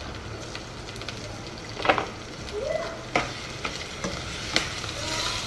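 Raw pieces of liver sizzling in hot oil in a metal pan as they are tipped in and stirred, with a few sharp clacks of the spatula against the pan.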